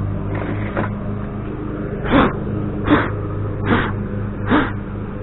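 A dog barking repeatedly, a sharp bark about every 0.8 seconds starting about two seconds in, over a steady low engine-like hum.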